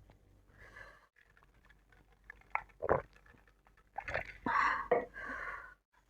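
Close-miked eating sounds: soft breaths, a few wet mouth clicks about halfway through, then a cluster of loud breathy chewing and slurping noises in the second half.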